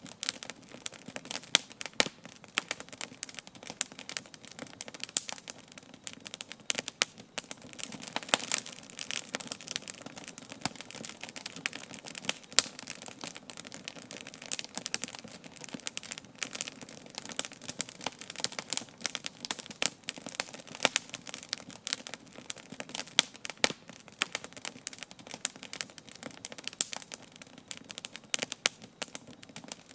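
Wood campfire crackling, with irregular sharp pops and snaps several times a second, some much louder than others.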